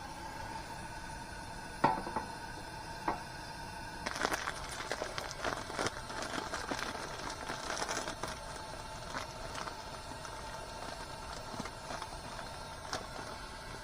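Small sharp clicks and crackles: a couple of single clicks, then a dense irregular flurry a few seconds long that thins out into scattered ticks.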